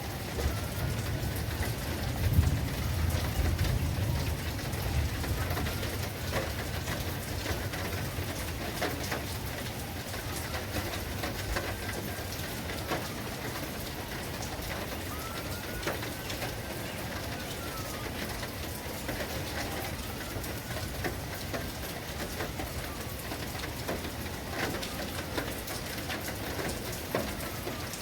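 Steady rain falling, with scattered drops striking a surface and a low rumble in the first few seconds. A faint bird call rises and falls about every three to four seconds.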